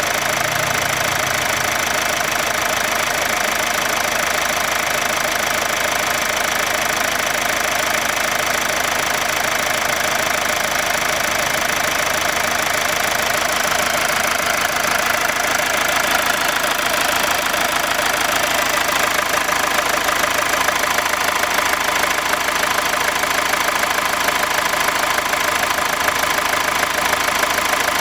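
Mazda Atenza's SKYACTIV-D 2.2 four-cylinder turbodiesel running steadily at idle, with an even diesel clatter.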